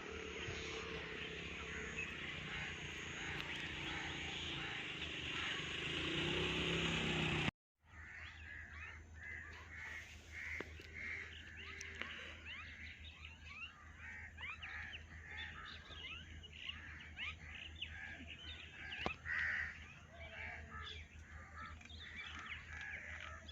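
Several birds chirping and calling in a dense outdoor chorus, with many short sweeping chirps. A high note repeats about once a second in the first few seconds, and the sound drops out briefly about seven and a half seconds in.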